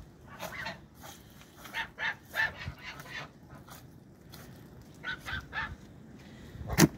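Short animal calls in small clusters, with one louder call near the end.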